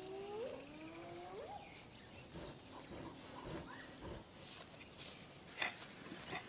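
Two rising whooping calls of spotted hyenas in the first second and a half, over a run of short, high, repeated bird chirps. A few faint soft rustles follow.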